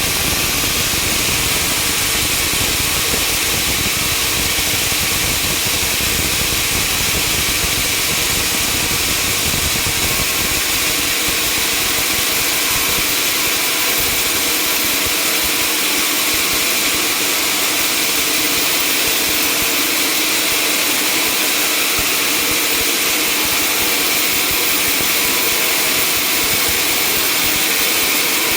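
Sawmill machinery running with a steady, unbroken noise, strongest in the high range; the low rumble thins out about halfway through.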